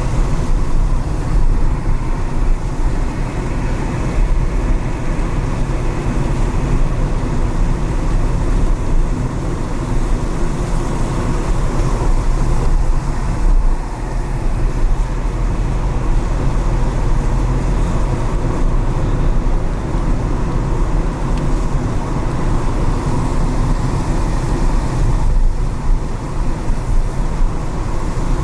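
Car driving through city traffic on wet streets: steady low rumble of engine and road noise with tyre hiss, and passing traffic.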